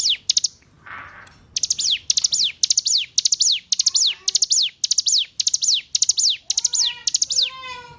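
Ciblek gunung, a prinia, singing one short high phrase over and over, about twice a second: a quick cluster of notes ending in a falling whistle. After a brief pause in the first second the phrase runs on steadily, with a few lower chirps near the end.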